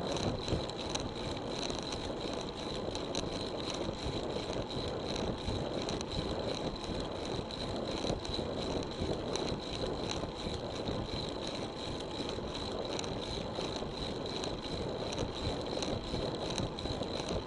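Road bicycle in motion: steady rolling and wind noise with light rattling, and a thin high whine that holds steady throughout.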